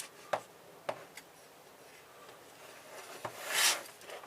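A few light clicks and knocks of a tool working at a car stereo's metal chassis during disassembly, then a brief scrape about three and a half seconds in.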